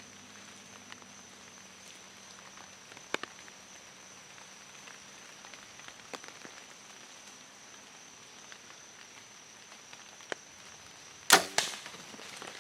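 A bow shot near the end: a sharp snap of the bow firing, then a second loud smack about a third of a second later as the arrow hits the deer. A few faint clicks come before it, over a steady faint high hum.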